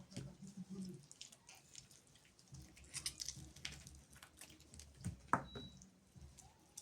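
Soft, wet squishing and light clicks of a knife working through raw chicken breast on a cutting board. About five seconds in there is a single brief, louder sound.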